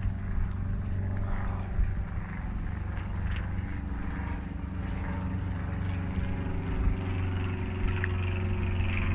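An engine running steadily with a low, even drone, over a hiss of wind or water.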